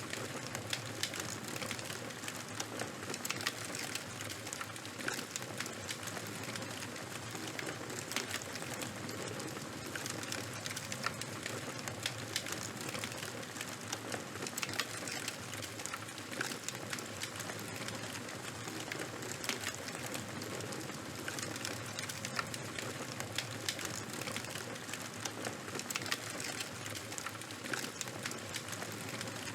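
Charcoal and bonfire fire burning, with frequent small crackles and pops over a steady hiss.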